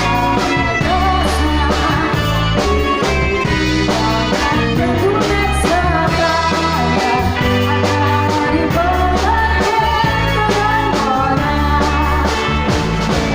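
A live band playing with singing, amplified through a PA sound system: bass and drum kit keeping a steady beat under a bending vocal line.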